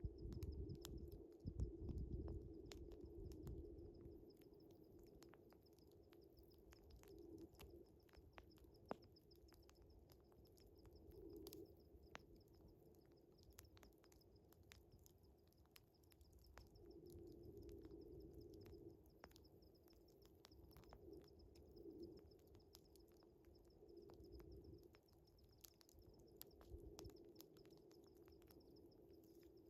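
Wood fire crackling with scattered sharp pops over a steady, pulsing chorus of night crickets, all faint. A low rumble swells in the first few seconds, and a low hum comes and goes.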